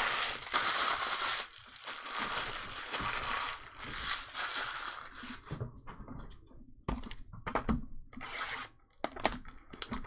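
Trading-card pack wrappers being torn open and crinkled: several long rips in the first half, then scattered crackles of the crumpled wrappers.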